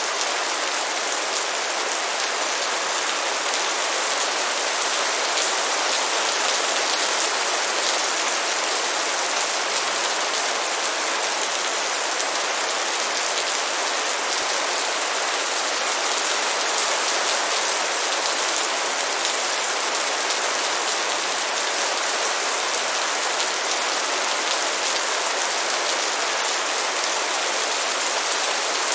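Light rain falling steadily: an even hiss of many drops that holds the same strength throughout.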